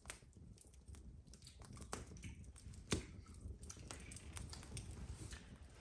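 Wood fire crackling in a fireplace: faint, irregular pops and snaps, with one louder pop about three seconds in.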